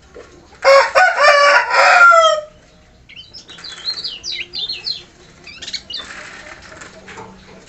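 A rooster crows loudly for about two seconds, the crow ending on a falling note. A kecial kuning songbird follows with a run of quick, high, sliding chirps.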